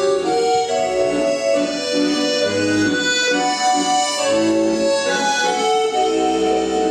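Accordion playing an instrumental tune: a melody moving in held notes over sustained chords, with low bass notes coming in now and then.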